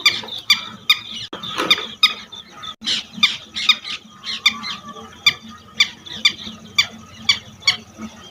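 Red-wattled lapwing giving a rapid run of sharp, shrill calls, about three a second, typical of its alarm call near its nest.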